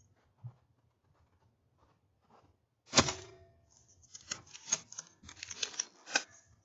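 A single air rifle shot from an Air Arms S510 pre-charged air rifle, a sharp report about three seconds in, followed by a run of light crackling and rustling in dry brush.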